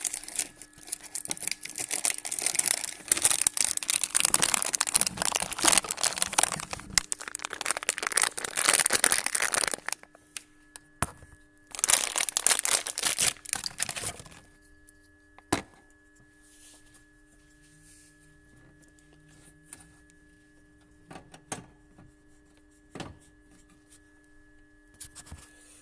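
Crinkling and rustling of plastic handled by hand, in a long stretch of about ten seconds and a shorter one a few seconds later. After that come only a few faint clicks over a steady low hum.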